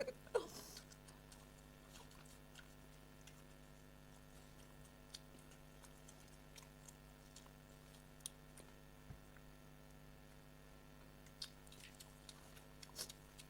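Quiet eating: faint, scattered mouth clicks and smacks of someone chewing soaked rice and fish, over a low steady hum. A brief sound with falling pitch, like a short murmur, comes right at the start.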